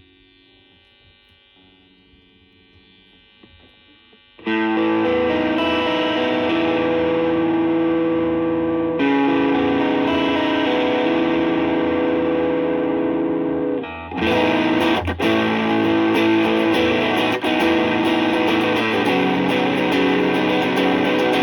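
Electric guitar through a Suhr Shiba Drive Reloaded, a Tube Screamer-style overdrive pedal. The first few seconds are faint, then loud, sustained overdriven chords start about four seconds in. After a brief break near the fourteen-second mark, more driven playing follows with a brighter, fizzier edge.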